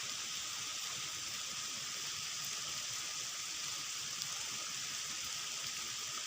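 Steady hiss of falling rain, an even, unbroken wash of noise with no distinct events.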